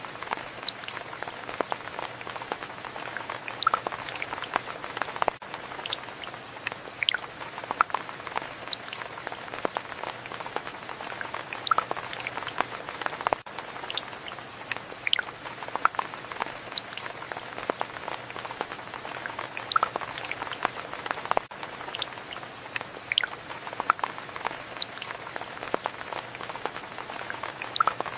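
Steady rain with many separate drops striking close by in an irregular, dense pattern. A faint high sound slides downward every eight seconds or so.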